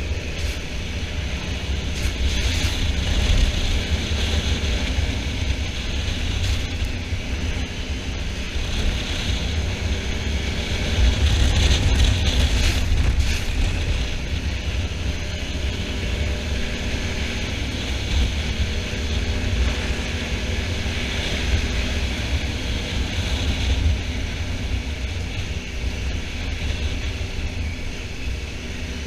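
Honda Africa Twin motorcycle riding along, its engine note drifting up and down under a heavy rush of wind on the microphone.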